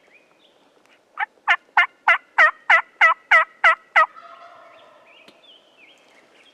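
Wild turkey yelping: a run of ten loud yelps, evenly spaced at about three a second, lasting nearly three seconds.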